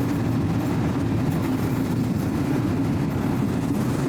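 A passing train running with a steady low rumble.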